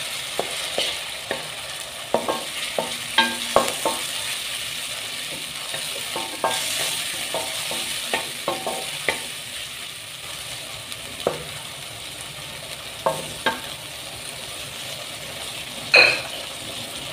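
Chopped tomatoes sizzling as they fry in hot oil, stirred with a wooden spatula that scrapes and knocks against the metal pan every second or so. Near the end comes one louder knock with a short high ring, the loudest sound here.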